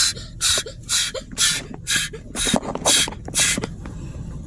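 Automatic car wash equipment swishing against the car in a steady rhythm, about two swishes a second, heard from inside the cabin over a low rumble; the swishing stops about three and a half seconds in.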